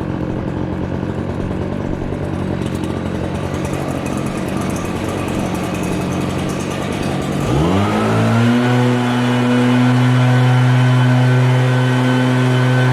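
Engine of a snow-plowing vehicle running, rough and steady, then about seven and a half seconds in its pitch rises and settles into a louder, steady hum.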